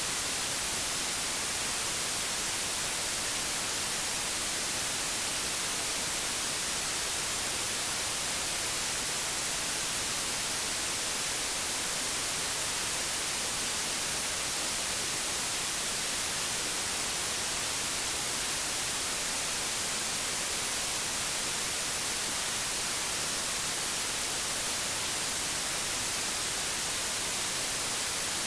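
Old analogue television static: a steady, even hiss, brighter in the treble, with no changes.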